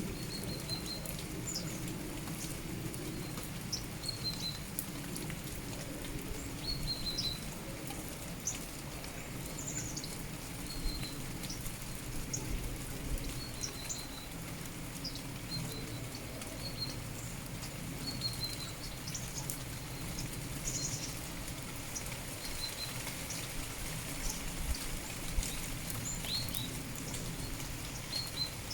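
Small songbirds giving short, high chirps every second or two over steady rain patter, with scattered drip ticks and a low steady rumble underneath.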